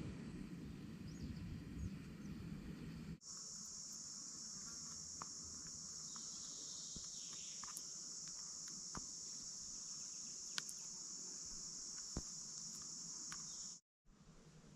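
Insects trilling in a steady, unbroken high-pitched chorus, with a few faint clicks. It follows a low rushing noise that cuts off about three seconds in, and it stops abruptly near the end.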